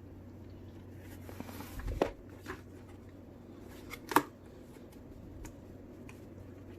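Quiet handling of a cardboard box: a soft rustle and a few sharp knocks, the loudest about four seconds in.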